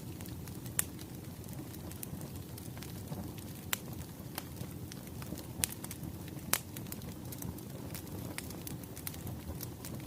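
Wood fire crackling: a steady low rumble of burning logs with irregular sharp pops and snaps, a few of them louder than the rest.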